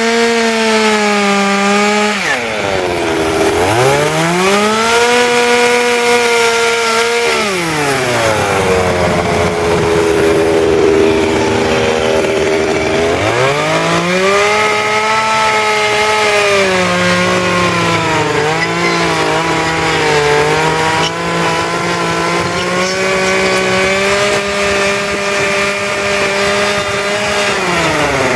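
Chainsaw carving wood, its engine revving up and down between cuts. Revs drop about two seconds in, climb back and hold, and drop again just before the end.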